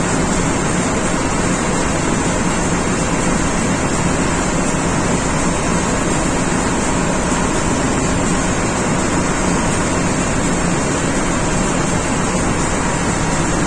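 Steady, loud machinery noise: an even roar and hiss that does not change or pause.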